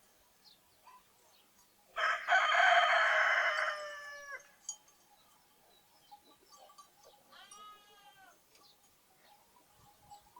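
A rooster crows once, loudly, about two seconds in, the call dropping in pitch at its end. Later a lamb gives a fainter bleat, with small birds chirping faintly throughout.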